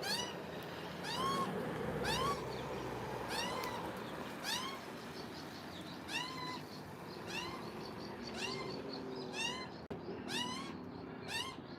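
A bird calling about once a second, each call a short, nasal, mewing note that rises and falls, most likely a young bird begging.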